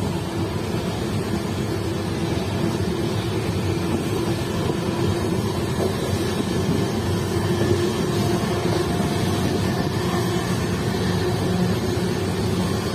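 Passenger train coach running at about 85 km/h, heard from inside: a steady, loud running noise of wheels on rail, picking up speed slightly.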